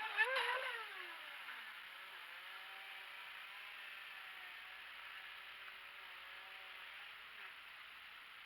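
Radio-controlled model boat's motor whining as it passes close by, dropping in pitch and fading over the first couple of seconds, then a faint steady whine from the boat further out on the water.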